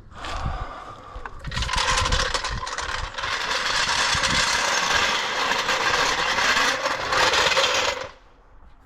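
A machine running: a loud, steady hiss with a whine, with a few low knocks early on. It stops suddenly about eight seconds in.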